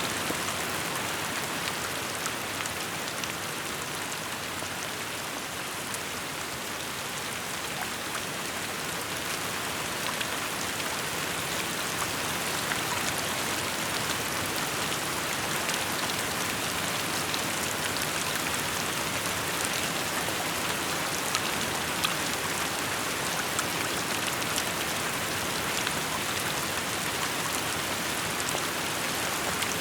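Steady rainfall, an even hiss of rain with many small drops pattering on surfaces.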